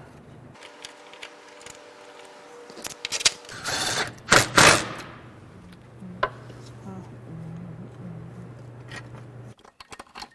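A power tool working on the bolts of an exhaust hanger bracket under the car. Its motor whirs steadily at first, with loud noisy bursts about four to five seconds in, then a steady low hum that stops shortly before the end.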